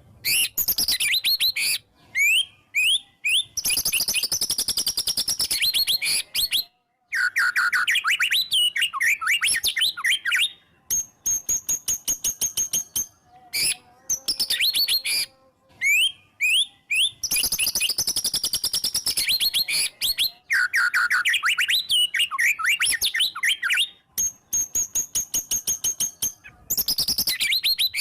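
White-rumped shama (murai batu) singing a loud, varied song in bursts of rapid sweeping and repeated notes, with short pauses between phrases. Twice it holds a long, high, rapid trill of about two seconds.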